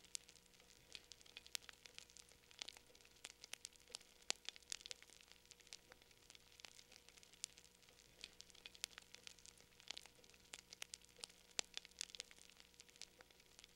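Wood fire in a fireplace crackling: quiet, irregular sharp pops and snaps, several a second, over a faint hiss.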